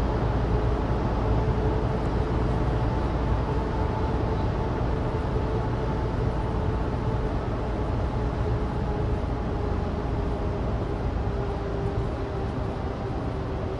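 Cabin noise of a Suzuki Alto Turbo RS (HA36S) driving steadily on a dry mountain road: a low drone from its 660 cc turbocharged three-cylinder engine mixed with road noise from studless winter tyres. A faint steady whine in the hum sinks slightly in pitch, and the overall sound eases a little near the end.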